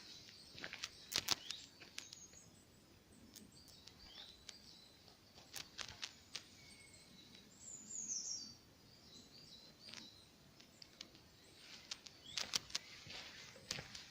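Birds chirping in woodland, with a short descending call about eight seconds in, over footsteps crunching on the forest floor near the start and again near the end.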